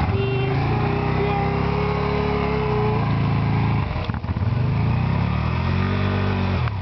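Can-Am Spyder's V-twin engine pulling hard under throttle. The revs climb and hold, drop briefly about four seconds in, then climb again.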